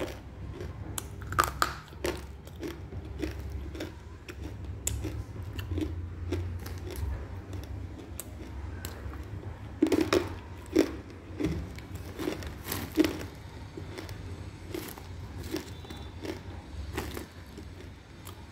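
Close-up crunching and chewing of hard chunks of roasted edible clay, in irregular sharp crunches with louder clusters about one and a half, ten and thirteen seconds in.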